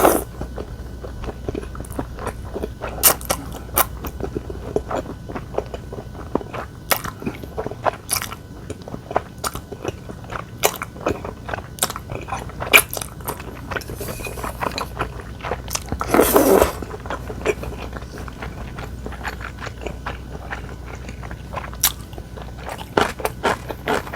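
A person chewing food close to the microphone: many small crisp crunches and mouth clicks, with one louder, longer crunch about sixteen seconds in.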